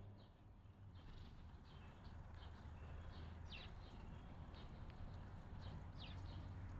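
Faint chirps and calls of small wild birds, scattered short notes with two sharper down-slurred calls about three and a half and six seconds in, over a steady low hum.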